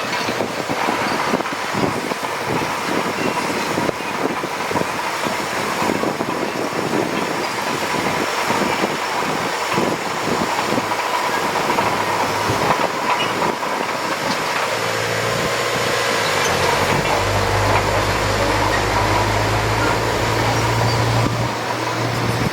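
Bulldozer at work: its diesel engine runs under a continuous clatter and clank of steel tracks. From about two-thirds of the way in, a steadier low engine drone comes forward.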